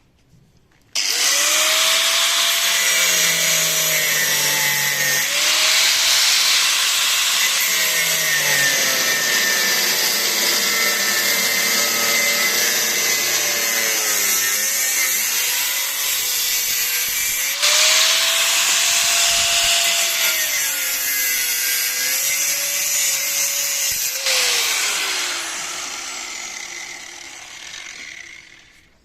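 A power tool cutting open a metal spin-on oil filter canister. Its motor whine dips in pitch and recovers as it bites into the metal, with loud cutting noise throughout, and it spins down over the last few seconds.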